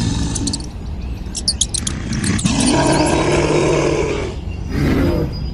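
A loud, drawn-out animal roar lasting about two seconds, starting about two seconds in, followed by a shorter call near the end.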